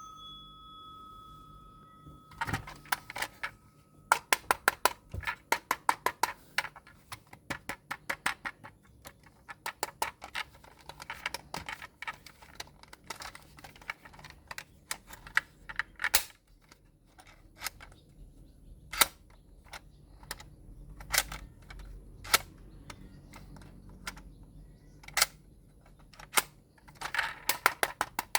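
Runs of sharp clicks and taps, several a second, with single clicks between, from toy packaging being handled and opened. A faint steady tone fades out about four seconds in.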